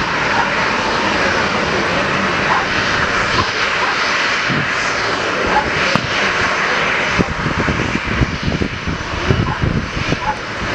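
Jet airplane engines running with a loud, steady rush, with uneven low buffeting joining in during the second half.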